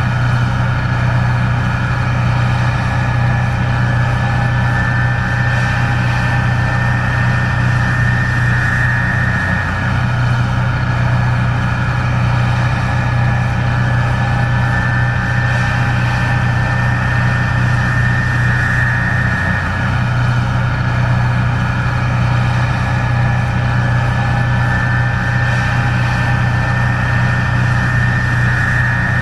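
Case IH 1660 Axial-Flow combine running steadily: a constant low engine drone with a high whine that swells and fades about every nine to ten seconds.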